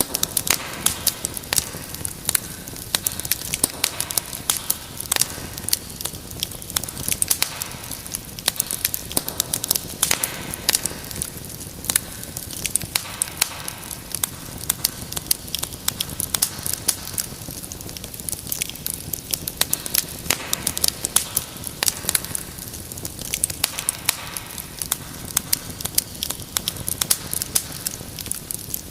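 Wood fire burning in a fireplace: a steady low rush of flame under many sharp, irregular crackles and pops from the burning logs.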